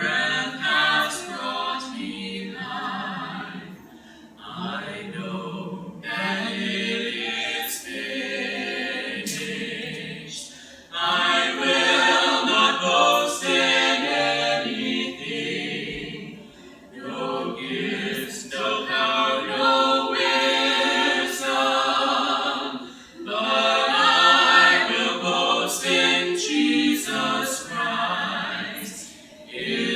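Small vocal group singing a cappella worship in harmony, in phrases that swell and dip with brief breaths between them.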